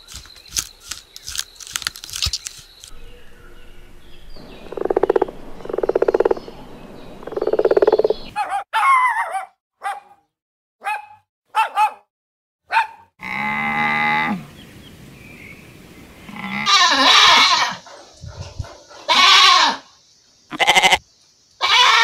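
A string of separate animal calls from different animals, cut one after another with brief silent gaps, among them goats bleating.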